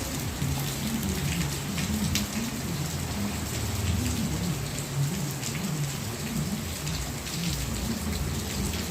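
Steady rain falling, with drops ticking on nearby surfaces and a low wavering hum underneath.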